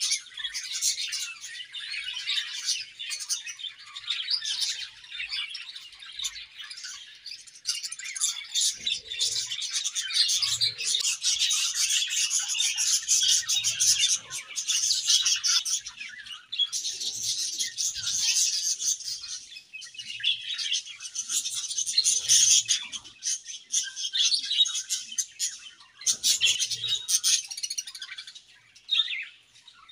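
A colony of budgerigars chattering and chirping together, a dense, continuous mix of rapid high warbles and tweets. It thins briefly a few times and is quietest near the end.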